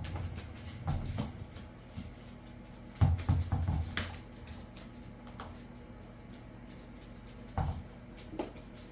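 A dog's toy ball being pushed and knocked about by a parrot: irregular thumps and knocks with light clicks between, the loudest cluster about three seconds in and more near the end.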